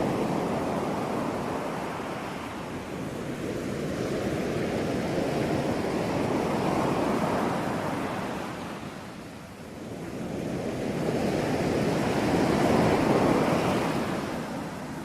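Ocean surf: a continuous rush of breaking waves that swells and ebbs, dipping about two thirds of the way through and building again to its loudest near the end.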